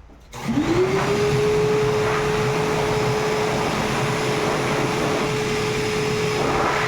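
Koblenz 5 HP, 9-gallon wet/dry shop vacuum switched on: the motor spins up with a rising pitch in under a second, then runs steadily with a constant tone over a rush of air.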